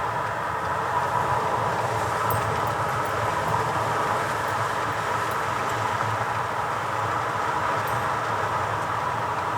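Steady road and engine noise inside a moving car's cabin, an even rumble and hiss with no breaks.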